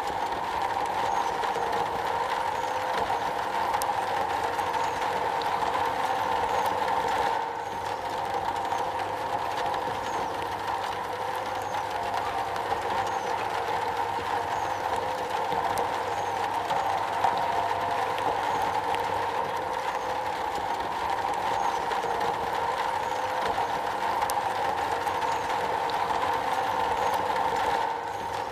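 Steady rain falling on a metal roof, an even, dense patter. The level dips briefly about seven seconds in and again near the end.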